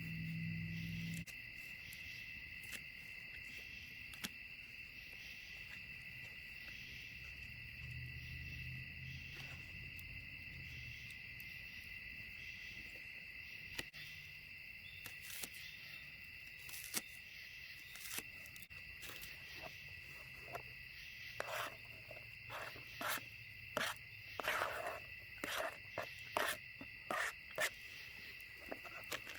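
Steady high chirring of crickets in a night chorus. From about halfway through, a run of short sharp snaps and crackles comes in, growing more frequent and louder near the end.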